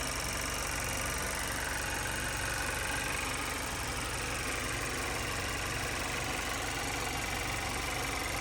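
2018 Chevrolet Cruze's 1.4-litre turbocharged four-cylinder engine idling steadily, with a faint whine that drifts slightly in pitch.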